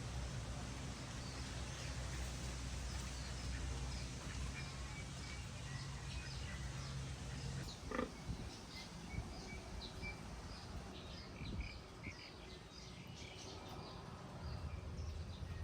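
Pigs and piglets grunting and squeaking, with many short high squeaks and one louder call about eight seconds in. A low steady hum stops about halfway through.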